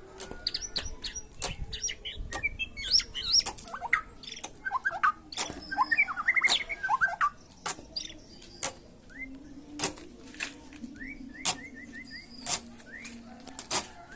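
A songbird chirping and twittering in quick, varied phrases, with a run of short rising notes near the end. Sharp clicks sound every second or so throughout.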